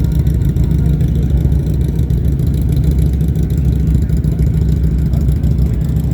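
Motorcycle engine running steadily, a heavy low rumble with no sharp changes.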